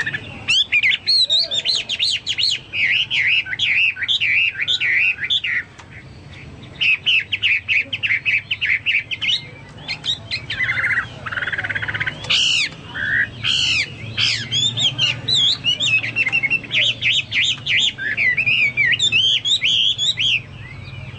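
Chinese hwamei singing a loud, rapid song of fast, sweeping whistled notes in repeated phrases, pausing briefly about six seconds in.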